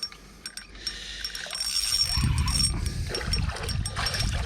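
A hooked eel splashing and thrashing in the water as it is wound in, with sharp clicks in the first second or so.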